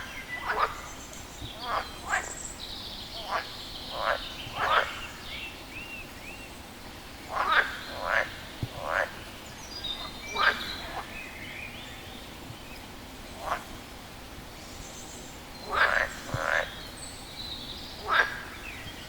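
A frog calling: short, sharp croaks, often two or three in quick succession, repeated at irregular gaps of a few seconds.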